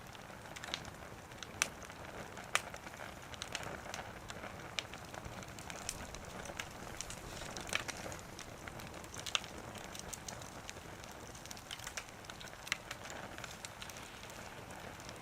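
Firewood burning in a small wood stove, crackling with irregular sharp pops over a steady hiss.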